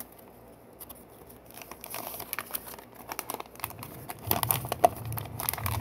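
Hands handling small plastic Lego pieces: light clicks, taps and rustling, growing busier in the second half.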